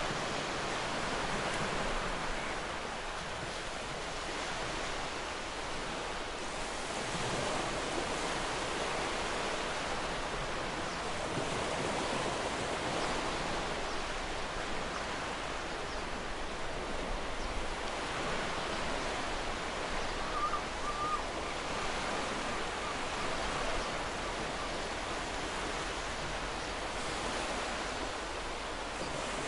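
Ocean surf washing onto a beach: a steady rush of breaking waves that swells and eases every few seconds. About two-thirds of the way through there is a brief faint chirp.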